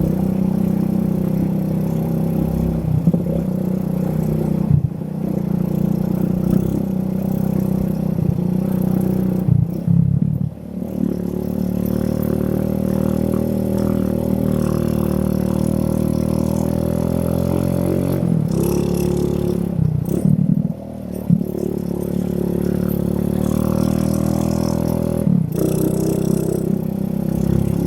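Yamaha Vega R's small four-stroke single-cylinder engine running under way, its pitch climbing steadily as it accelerates through a gear. The sound drops briefly at gear changes about ten and twenty seconds in, and a few short knocks come through.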